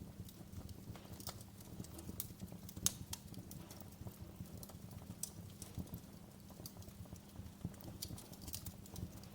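Wood fire crackling in a fireplace: irregular sharp pops and snaps over a low steady rumble of the flames, with one louder pop about three seconds in.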